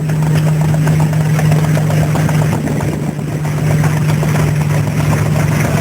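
Vintage stationary engine running steadily: a constant low hum with a quick, even beat.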